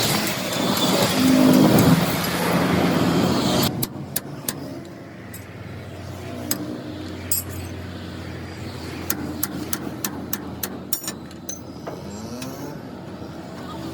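Motor vehicle engine running loudly, dropping off abruptly about four seconds in to a quieter steady engine hum with scattered sharp metallic clicks.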